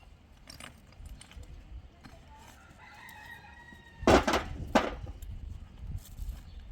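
A rooster crowing, one long call, followed a little after halfway by two loud knocks about half a second apart.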